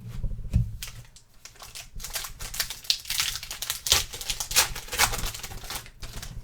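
Trading cards being handled: a rapid, irregular run of clicks and crinkles, thickest in the middle and stopping near the end.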